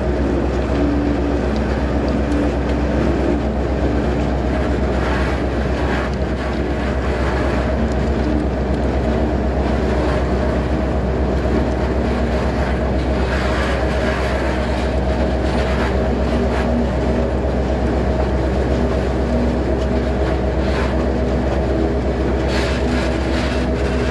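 Locomotive running steadily along the track, heard from on board: a loud, even engine rumble with a held tone. Short clicks from the wheels come now and then.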